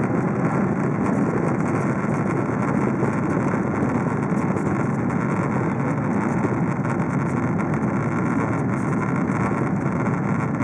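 Steady cabin noise inside a Boeing 777-300ER taxiing after landing: an even rumble and hiss from the engines and cabin air.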